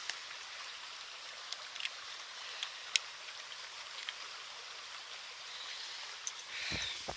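Flowing water making a steady rushing hiss, with a few sharp ticks scattered through it. Near the end there is a low thump and a brief rustle.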